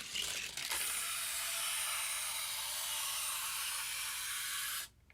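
Hot Wheels die-cast car rolling along plastic track: a few clicks at the start, then a steady rolling hiss that cuts off suddenly near the end.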